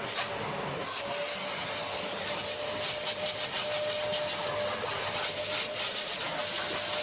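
Vacuum cleaner running steadily during car interior cleaning, a hissing rush of air over one held motor whine that dips briefly about a second in.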